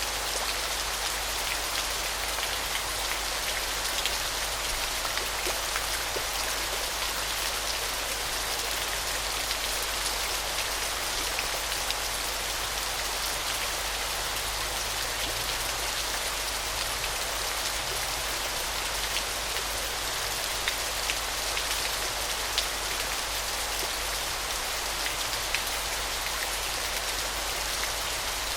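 Waterfall: a steady hiss of falling, splashing water, with scattered small sharp splash ticks.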